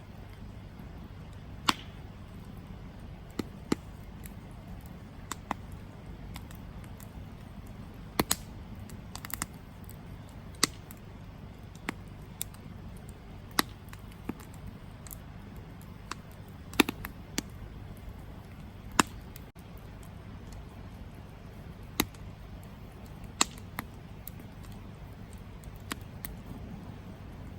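Campfire crackling: sharp, irregular pops and snaps from the burning wood, roughly one every second or two, over a steady low rumble.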